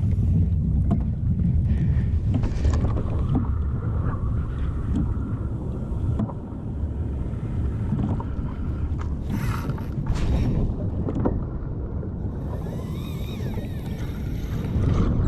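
Wind buffeting the microphone over water moving around a kayak, a steady low rumble with a few scattered knocks and brief hissing bursts.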